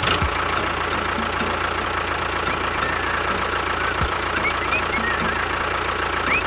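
Tractor-style engine idling steadily, with a regular light knocking beat.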